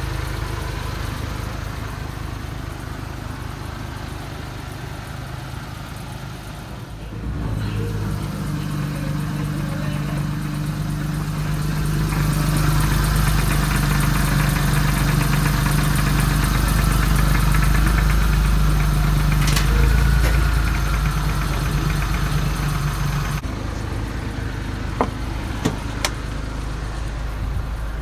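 1994 Suzuki Every van's small three-cylinder engine idling. The sound steps up about seven seconds in and grows louder from about twelve seconds with a faint whine, then drops back near the end, where two clicks follow.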